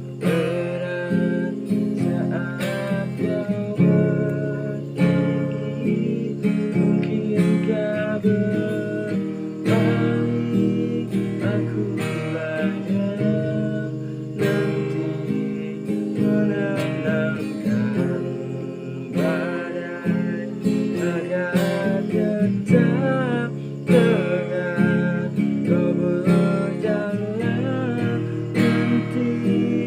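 Acoustic guitar playing an instrumental passage of a song: steady strummed chords with melody notes over them.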